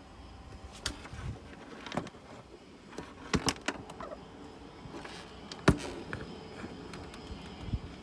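Scattered short clicks and knocks of hands working on parts and tools, about half a dozen, the sharpest a little before six seconds in, over a faint steady background.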